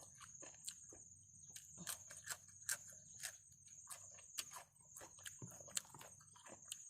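Faint crisp crunching and chewing, many sharp clicks, as raw vegetables and spicy seafood papaya salad are eaten, with a steady high-pitched insect trill, like crickets, behind it.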